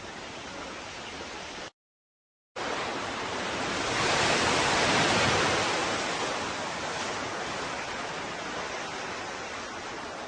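Ocean surf: a steady wash of waves that cuts to dead silence for under a second near the start, then one wave swells to its loudest in the middle and slowly washes back out.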